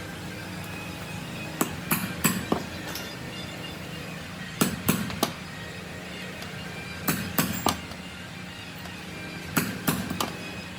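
Hammer blows on metal in quick clusters of three or four, a cluster about every two and a half seconds, over a steady low hum.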